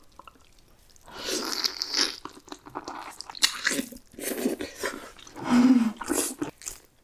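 Close-miked eating: crunchy bites and chewing, crackling in bursts after a quiet first second. A short voiced sound comes about two-thirds of the way through.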